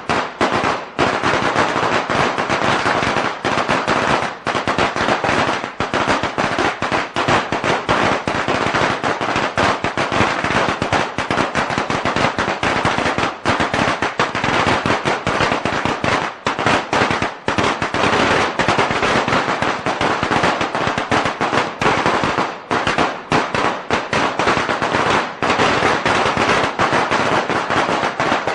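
A string of Chinese firecrackers going off in a rapid, unbroken crackle of sharp bangs, with only a few brief gaps.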